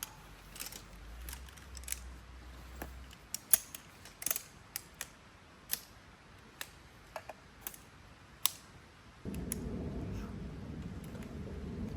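Scattered small clicks and knocks of camping gear being handled and set up, a few sharper ones around three to four seconds in. About nine seconds in, a steady low rushing noise starts suddenly and carries on.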